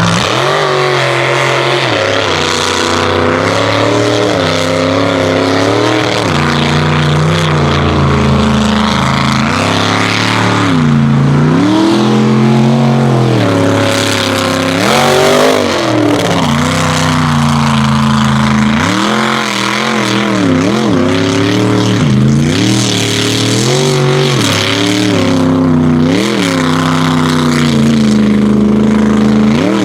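Mega truck engine racing at full throttle, its pitch repeatedly climbing and dropping as the throttle is worked, with a sharp climb near the end.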